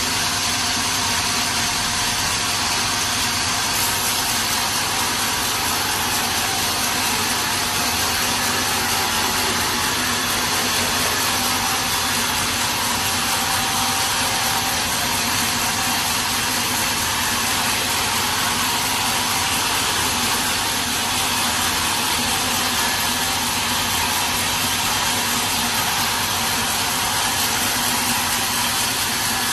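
Sawmill machinery running steadily: an even, unchanging mechanical noise with a faint steady hum, holding the same pitch and level throughout.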